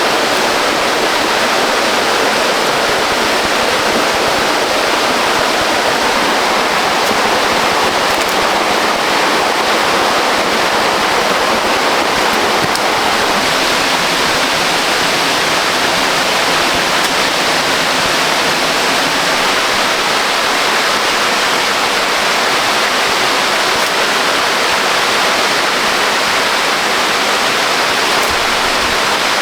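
Waterfall rushing: a steady, unchanging wash of falling water.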